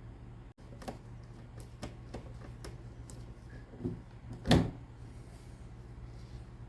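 Light clicks and taps of parts and tools being handled while an espresso machine is taken apart, with a louder knock about four and a half seconds in, over a steady low hum.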